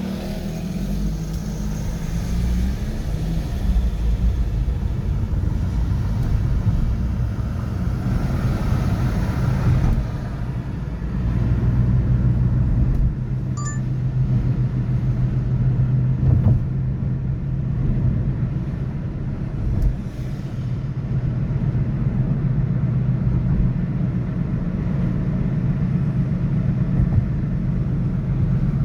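City street traffic: a continuous low rumble of cars and other vehicles running past, with a steady engine hum through the second half.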